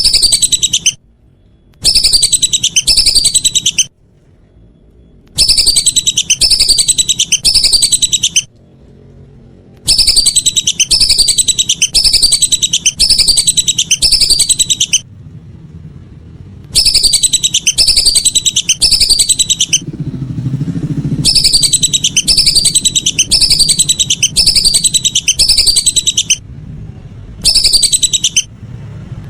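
Whistling duck (belibis) calls: shrill whistled notes, each falling in pitch, given in runs of two to four and repeated over and over with short pauses between runs.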